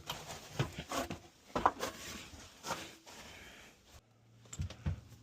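Irregular knocks, clicks and rustling from hands handling tools and wiring. About four seconds in it turns quieter, leaving a steady low hum and two soft thumps.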